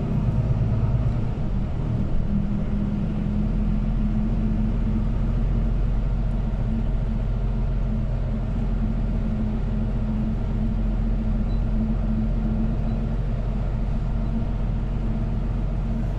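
City bus driving, heard from inside the passenger cabin: a steady low rumble of engine and running gear with a constant engine hum.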